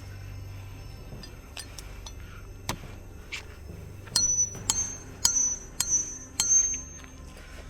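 Hard objects clinking together: a few scattered light clicks, then five loud, sharp ringing strikes about half a second apart in the second half.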